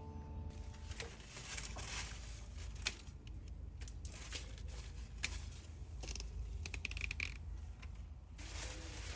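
Faint scattered clicks and light scrapes, small handling noises, over a low steady rumble.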